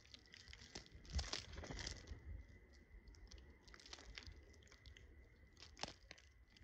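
Faint, irregular clicks and crunches of birds pecking at and breaking up food, a little louder about a second in and again near six seconds. A thin steady high tone runs underneath.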